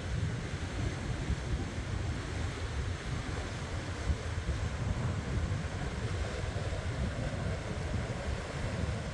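Pacific Ocean surf washing in continuously, with gusty wind buffeting the microphone in low rumbles.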